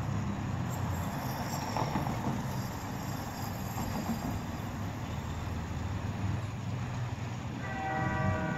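Low, steady rumble of an approaching passenger train. Near the end the locomotive starts sounding a warning chord of several steady notes at once for the crossing.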